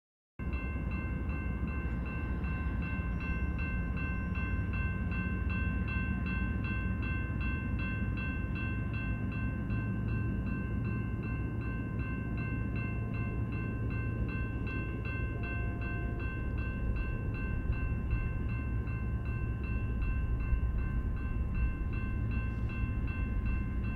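Low, steady rumble of an approaching freight train not yet in sight, under a steady bell-like ringing that pulses about twice a second.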